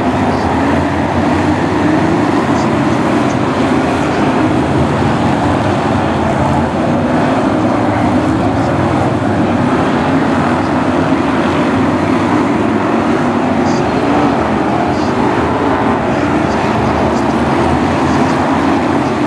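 A pack of BriSCA F1 stock cars circulating together, their V8 engines making a steady, loud, unbroken drone.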